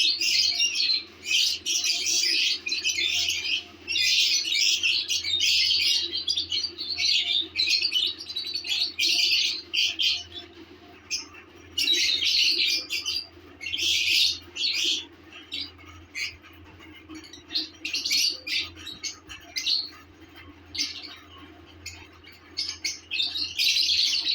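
Lovebirds chirping and squawking in dense, high-pitched bursts, busiest in the first half and again around the middle, thinning to scattered calls later, over a steady low hum.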